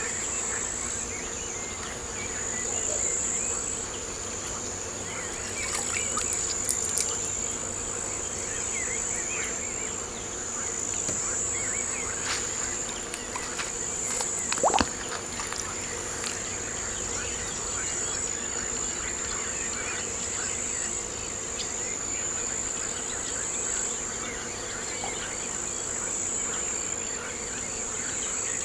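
Insects chirring in a steady, high-pitched trill, with scattered faint short chirps over it. A couple of brief sharp clicks come about a quarter of the way in and again near the middle.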